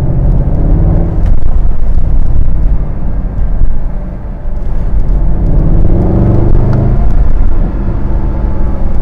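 Mercedes-AMG SLS 63's 6.2-litre naturally aspirated V8 running under throttle in Sport Plus mode, with a steady low rumble. The sound eases briefly about four seconds in, then climbs in pitch as the revs rise.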